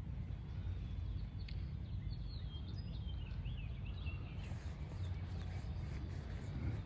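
Outdoor ambience: a steady low rumble with a bird chirping a quick series of short notes from about two to four seconds in.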